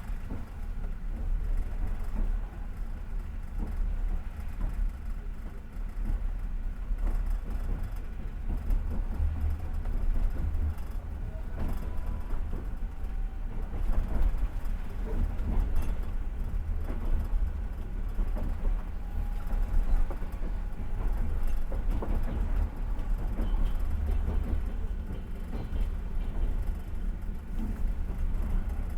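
Passenger train running along the rails, heard from aboard: a steady low rumble with the wheels clacking over the rail joints.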